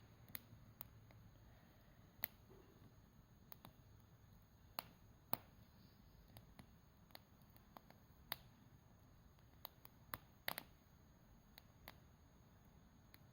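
Bonfire crackling: sharp, irregular snaps and pops from the burning wood, a dozen or so, over a faint low background.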